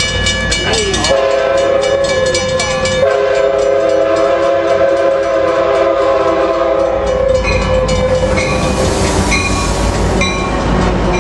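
Amtrak F59PHI diesel locomotive sounding its multi-chime air horn in long blasts, with a short break about a second in; the horn stops about seven seconds in, giving way to the rumble and clatter of the passing train's wheels on the rails.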